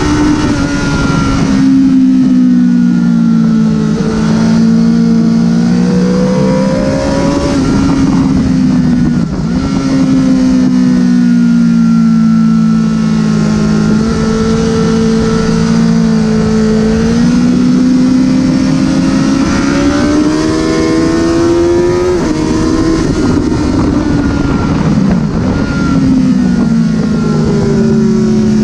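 Honda CBR1000RR's inline-four engine running hard at speed, its pitch rising and falling over and over as it revs up and comes off the throttle, with a sudden drop about 22 seconds in. A steady rushing noise runs underneath.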